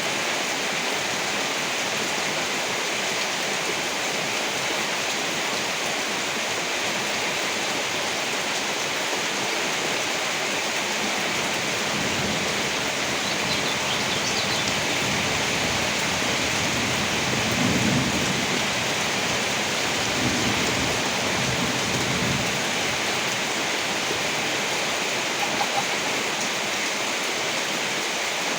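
Steady heavy rain falling, with low rolling rumbles of thunder swelling up about halfway through, the loudest a little past the middle.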